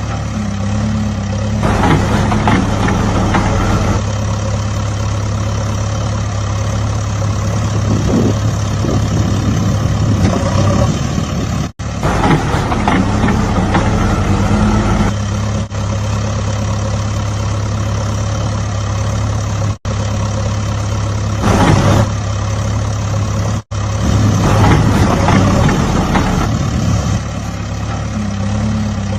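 A vehicle engine idling and running steadily with a low, even hum, broken by several abrupt cuts.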